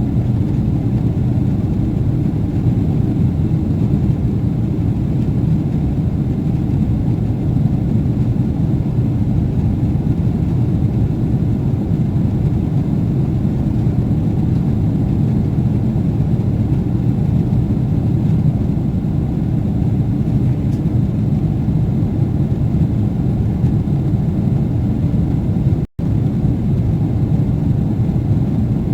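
Steady low rumble of cabin noise inside a Boeing 777-300ER in flight, unchanging throughout, with a split-second break near the end.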